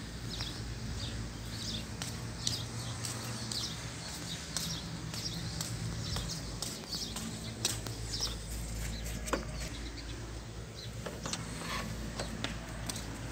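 Small birds chirping over and over in short high notes, over a steady low hum. A few sharp clicks near the end, from a key turning in a door lock.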